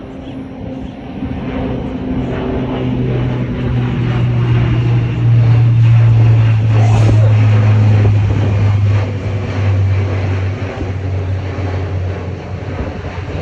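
Lockheed C-130's four turboprop engines at takeoff power: a loud, low propeller drone that grows louder, peaks about halfway through, then slowly fades.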